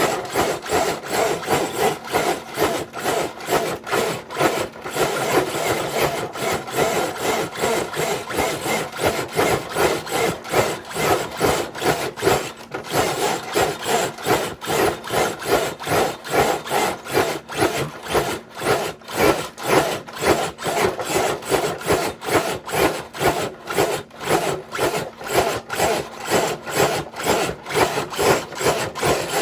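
RC truck dragging a brick-loaded dead-weight sled: a continuous scraping that pulses about three times a second as the sled is hauled in jerks.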